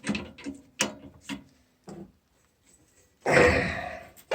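Short metallic clicks of a wrench working a hardened easy-out (screw extractor) in a broken-off steel pipe nipple, four or so in the first two seconds, then a short, loud burst of noise a little past three seconds in.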